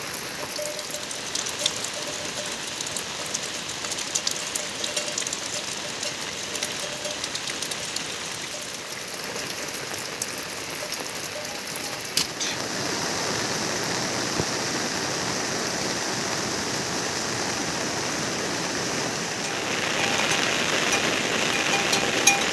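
Rain falling, with scattered sharp drip ticks; about halfway through it becomes a steadier, slightly louder hiss.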